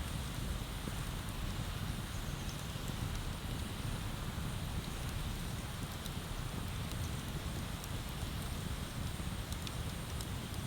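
Wood bonfire burning, with faint scattered crackles and small pops over a steady low rumble.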